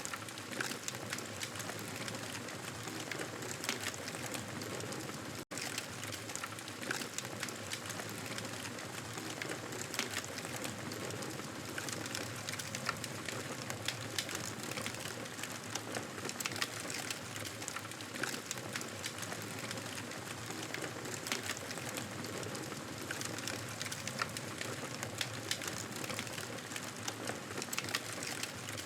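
Campfire burning with continuous crackling: a steady hiss scattered with many small sharp pops and snaps. The sound cuts out for a split second about five and a half seconds in.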